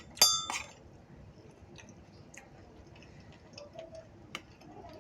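Tableware clinking: one sharp ringing clink about a quarter second in that dies away within half a second, then a few light scattered clicks.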